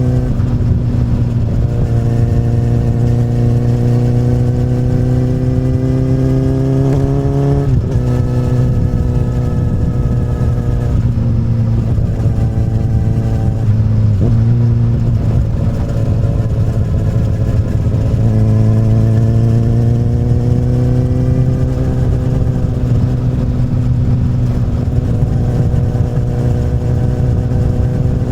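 A 2008 Honda CBR1000RR's inline-four engine running through an Akrapovic carbon slip-on exhaust while being ridden. The engine note climbs slowly under light throttle and is broken by gear changes about 8 and 14 seconds in.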